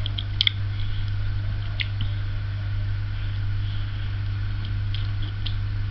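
Soft, wet mouth clicks of someone chewing a sticky matcha mochi sweet, a few scattered clicks over a steady low hum.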